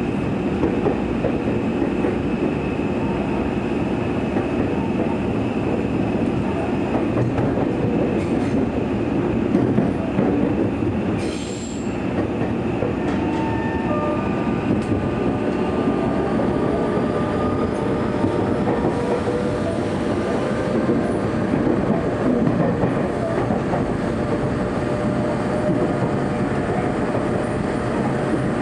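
Tokyo Metro 03 series four-quadrant-chopper train heard from inside the car while running: a steady rumble of wheels on rail with faint steady whining tones from the traction equipment. A brief high squeal comes a little over ten seconds in.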